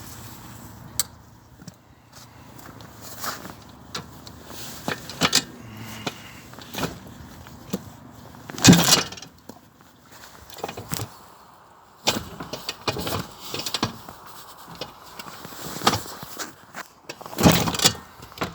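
Kick-start attempts on a cold 1981 Kawasaki KX420 two-stroke single: the engine turns over briefly without catching, hardest about nine seconds in and again near the end, with smaller knocks and clatter in between. It never fires into a running idle.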